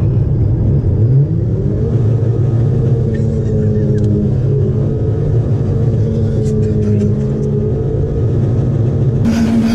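Car engine running with WD-40 in its crankcase in place of engine oil, heard from inside the cabin while driving; the revs climb about a second in, then hold steady. A rush of broad noise joins near the end.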